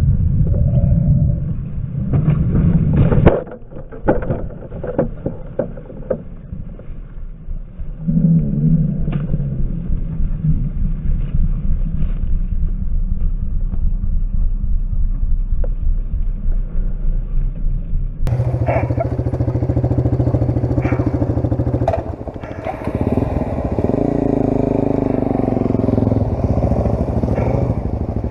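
Small off-road vehicle engine running: loud at first, dropping away suddenly about three seconds in, then settling into an even pulsing idle. With about ten seconds left a louder, fuller engine sound takes over.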